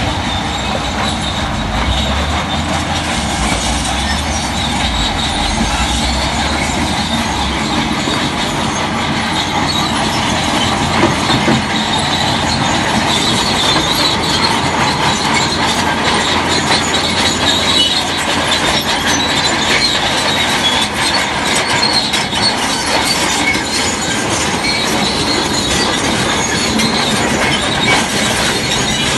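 Crawler bulldozer working, its steel tracks squealing and clanking over the engine's running, with a deeper engine rumble in the first few seconds.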